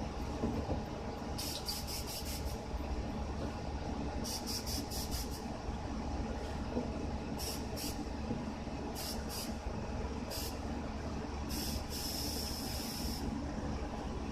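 Aerosol can of black spray paint being sprayed in short hissing bursts, some broken into quick pulses, with one longer spray about twelve seconds in, over a steady low hum.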